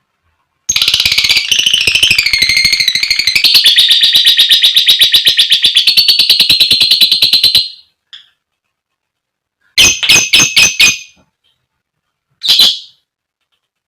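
Lovebird giving a long, rapid chattering trill (the 'ngekek'), a fast string of high, evenly spaced chirps lasting about seven seconds. After a pause it gives a quick burst of five sharp calls, then a single call near the end.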